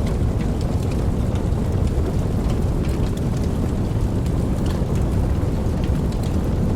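Steady heavy rain with a deep low rumble beneath it and scattered sharp drop sounds.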